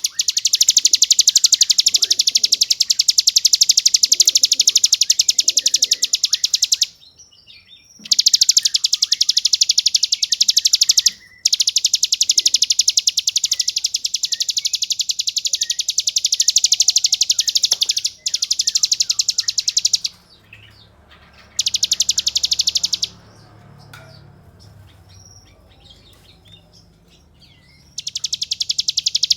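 Ciblek gunung (a mountain prinia) singing its long, very rapid buzzing trill ('ngebren'), high-pitched and loud. It comes in runs of up to about seven seconds, broken by short pauses with faint chirps, and there is a longer lull near the end before the trill starts again.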